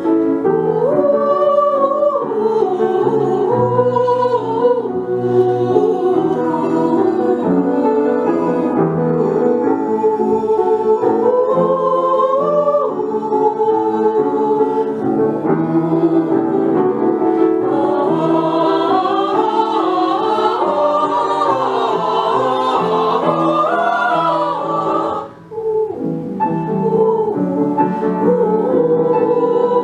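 Children's vocal ensemble singing a song with piano accompaniment, the melody moving in sustained phrases. The music breaks off briefly about 25 seconds in, then the singing and piano resume.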